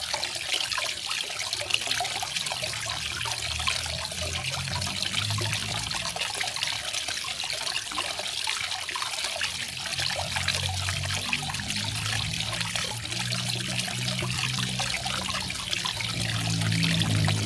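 Garden waterfall: water splashing and trickling steadily, with a low rumble underneath that swells now and then.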